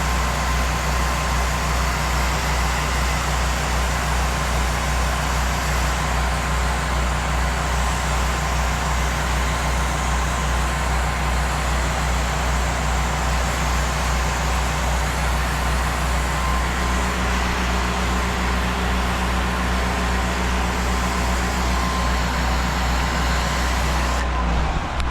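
Small engine running steadily at constant speed, with a steady hiss over it, from a soft-wash spraying rig's generator and pump during spraying. The engine note shifts slightly about two-thirds of the way through.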